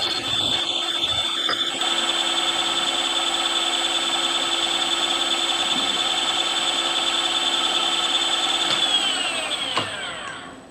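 Milling machine spindle and motor running steadily with a whine, then switched off and winding down in pitch over the last second or two.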